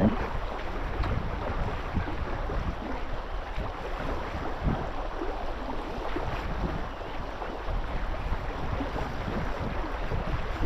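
Steady wind buffeting the microphone over the wash of moving water.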